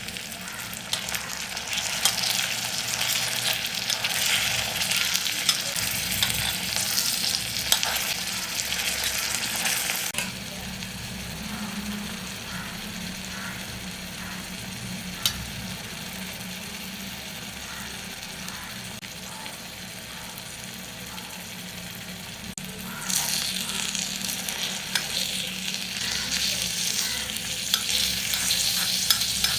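Food frying in hot oil in a miniature pan, a steady crackling sizzle. It is louder for the first ten seconds or so, dies down through the middle, and picks up again near the end.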